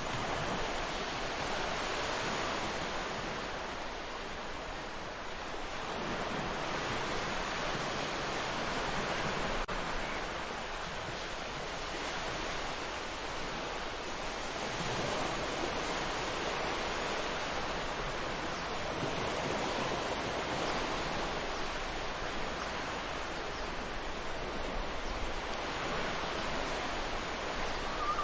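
Ocean surf washing onto a beach, a continuous rush that swells and eases every five or six seconds as each wave comes in.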